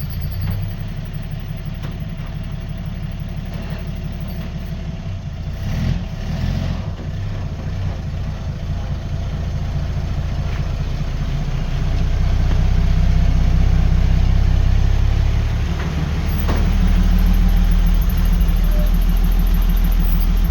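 1930s Chevrolet pickup's inline-six engine running at idle just after starting, getting louder about twelve seconds in and again near the end.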